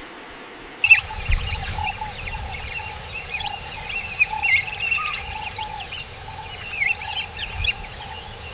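Birds calling, with many short quick chirps and whistled notes over a run of lower repeated notes and a low rumble. The sound starts abruptly about a second in.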